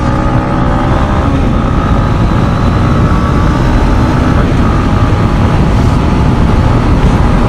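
Yamaha MT-15's 155 cc single-cylinder engine pulling under throttle while riding. The revs climb through about the first second, then hold steadier, under heavy wind noise on the microphone.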